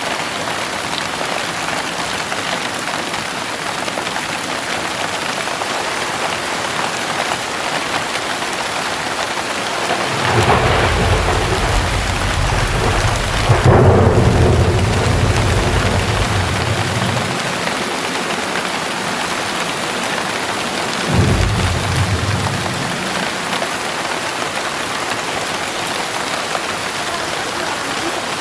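Heavy rain falling steadily, with a long rumble of thunder that begins about ten seconds in, swells to a peak a few seconds later and dies away, then a second, shorter thunder rumble about twenty-one seconds in.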